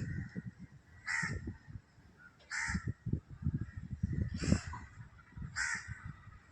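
A crow cawing about five times, one harsh caw every second or so, over an uneven low rumble.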